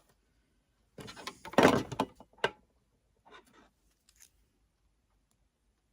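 Handling noise from a heavy cotton hoodie being worked at the sewing table: a rustle that builds to a loud scuff about a second and a half in, a sharp click, then a few soft rustles.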